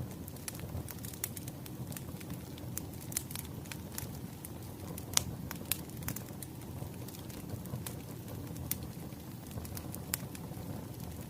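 Firewood fire crackling: a steady low rumble of flames with scattered sharp pops and snaps, the loudest about five seconds in.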